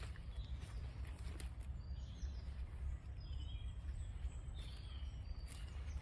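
Small birds chirping in a run of short, high calls, over a steady low rumble. There are footsteps on a path near the start and again at the end.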